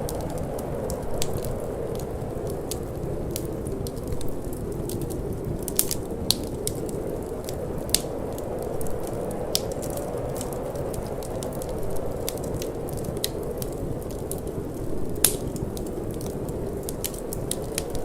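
Wood fire crackling, with irregular sharp pops and snaps, the loudest about fifteen seconds in, over a steady low rushing of cold wind.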